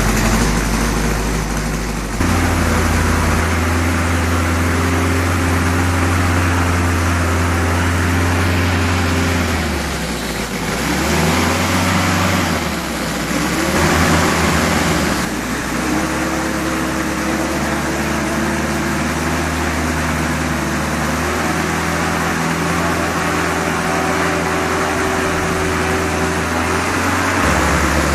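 A quarter-scale 18-cylinder four-stroke air-cooled radial model engine runs steadily. Its speed dips about ten seconds in, rises briefly around fourteen seconds, then settles back to a steady run.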